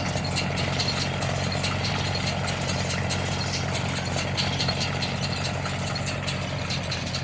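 Tractor-drawn hay baler at work: a steady engine running, with rapid, uneven clicking and clattering over it.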